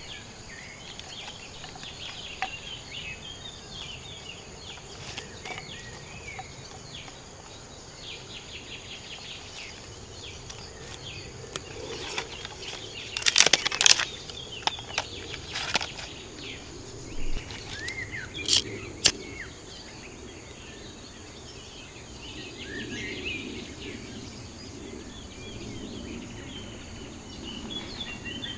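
Outdoor forest ambience: small birds chirping over a steady background hiss, broken by a few sharp clatters about thirteen to fourteen seconds in and again around eighteen seconds.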